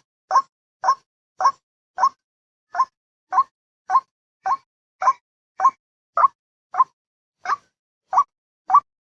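White-breasted waterhen lure-call recording: a short 'wak' note repeated steadily, about two a second, each note clipped short with dead silence between. It is played to draw waterhens in.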